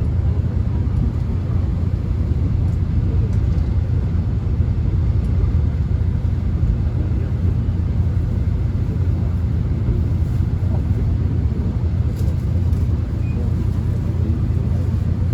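Steady low rumble inside a moving Korean subway car: the train running along the track.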